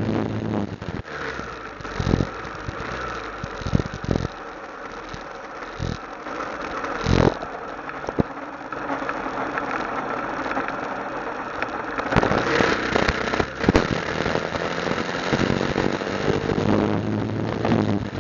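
Motorcycle engine running at low revs, its note strongest at the start and over the last few seconds, with several sharp knocks along the way, the loudest about seven seconds in.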